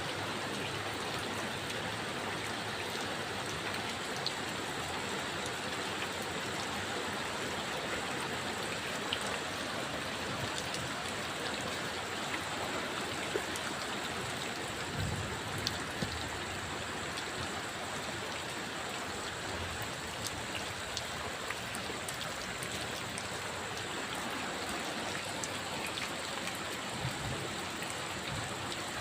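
Steady rain falling, a constant hiss with scattered sharper drop hits and a few soft low thuds.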